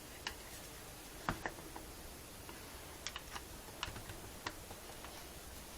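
A few light, scattered clicks and taps of small metal parts being handled: hydraulic valve lifters being oiled and fitted into their bores in the cylinder head.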